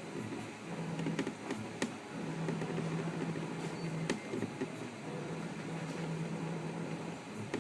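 Stratasys Dimension 1200es FDM 3D printer running: a steady motor hum that stops and starts every second or two as the head moves, with a few sharp clicks.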